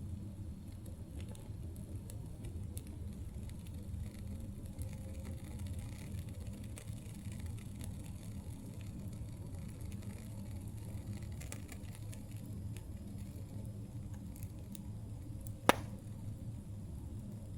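Campfire burning and crackling: a steady low rumble with scattered small pops, and one sharp, loud pop near the end.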